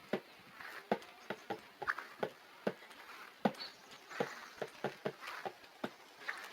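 Irregular light taps or clicks, two or three a second at uneven spacing, over a faint hiss.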